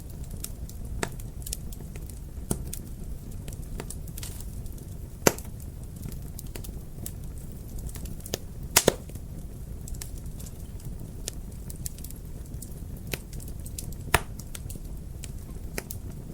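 Wood fire in a fireplace crackling, with a steady low burning rumble under scattered sharp pops; the loudest pops come about five seconds in, as a close pair near nine seconds, and once more about fourteen seconds in.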